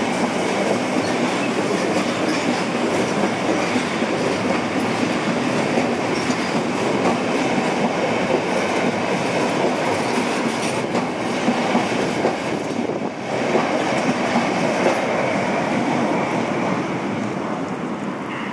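Container freight train's loaded wagons rolling past at close range, wheels clattering steadily over the rails. There is a brief dip about thirteen seconds in, and the noise eases near the end as the last wagon clears.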